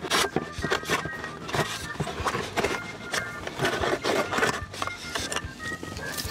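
Close-miked eating: a person chewing crunchy food in quick, irregular crunches, with faint background music.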